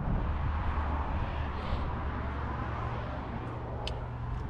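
Steady workshop background noise: a constant low hum under a broad hiss, with a small click near the end.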